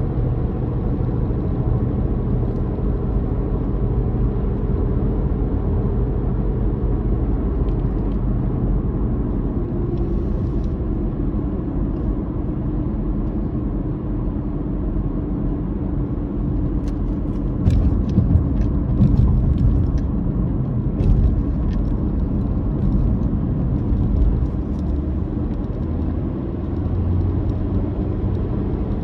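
A car's engine drone and tyre rumble while driving. From a little past halfway there is a stretch of light knocks and rattles, with the low rumble briefly louder.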